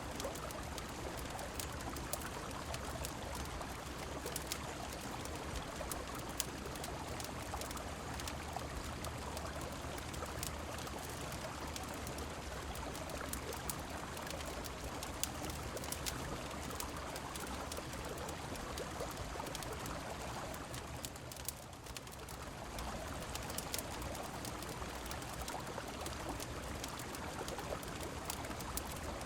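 A river flowing and rain falling, making a steady wash of water, with frequent sharp crackles of a wood fire scattered through it. The sound dips briefly softer about three quarters of the way through.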